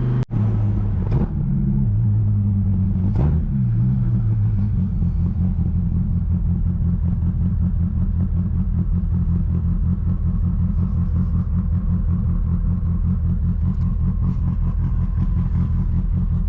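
Twin-turbo Dodge Viper's V10 engine running while the car is driven, a low drone. Its pitch shifts a couple of times in the first few seconds, then it holds a steady note.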